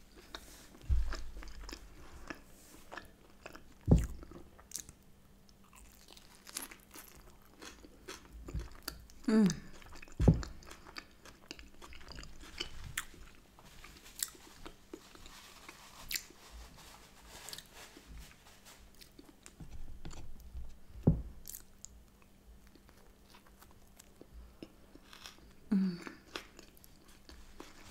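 Chewing and biting of a soft bagel sandwich of smoked salmon, cream cheese and avocado: wet mouth clicks and smacks, with a few louder thumps.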